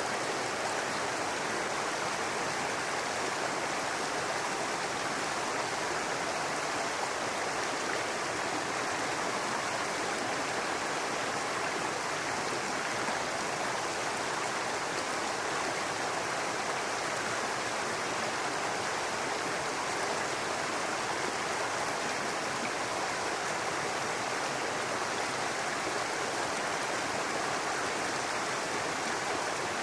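Small brook babbling over rocks, a steady continuous rush of running water.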